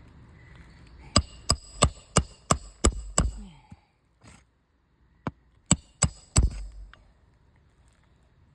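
Hammer blows during a shingle roof repair: seven quick, sharp strikes at about three a second, a short pause, then four more.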